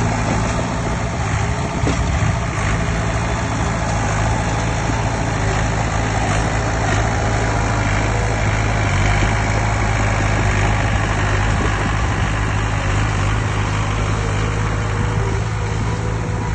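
Heavy earthmoving machine's diesel engine running steadily, with an even low hum and no breaks or changes.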